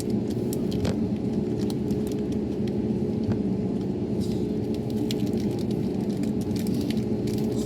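Airbus A321neo jet engines running at takeoff power, heard as a steady low roar from a distance, with faint scattered clicks over it.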